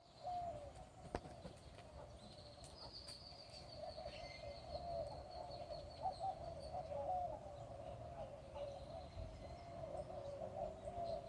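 Faint outdoor bird calls: a steady, wavering low chatter throughout, with a thin high whistle drawn out for several seconds near the middle and slowly falling in pitch.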